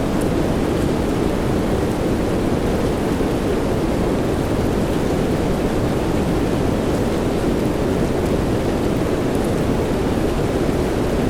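Steady rain: a dense, even hiss weighted toward the low end, with a few faint drop ticks.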